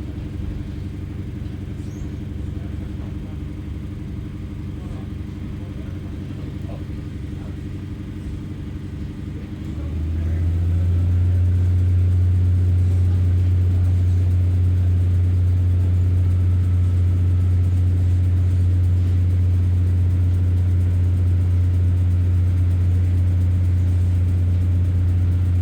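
Diesel engine of a Class 144 Pacer railbus running with a steady drone. About ten seconds in it grows much louder and then holds a steady, stronger drone to the end.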